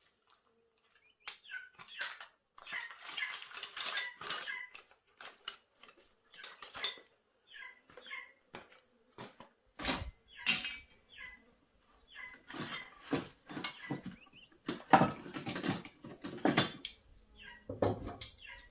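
Irregular light clinks, knocks and clatter of hard objects being handled, coming in short bursts with pauses between.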